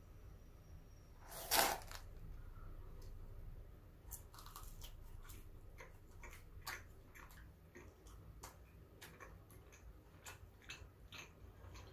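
Close-up mukbang chewing and biting of Auntie Anne's pretzel sticks: a run of small, irregular mouth clicks, with one louder noise about a second and a half in.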